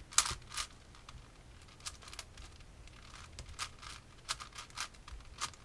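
Plastic Rubik's-style cube being turned by hand: an irregular run of quick clicks and clacks as the layers are twisted.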